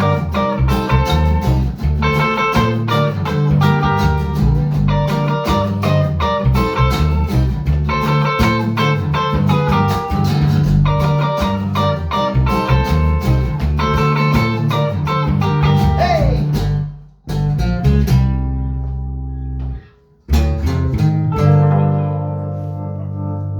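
Guitar-led band music with bass playing an instrumental passage after the vocals; it ends in a held chord, stops briefly, then strikes a final chord that rings out.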